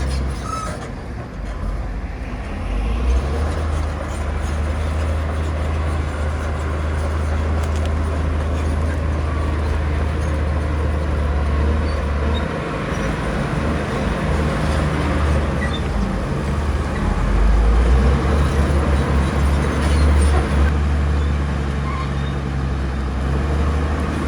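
Heavy diesel earthmoving machinery running: a deep, steady engine rumble with a noisy haze above it. It dips briefly about twelve seconds in and grows louder around eighteen seconds.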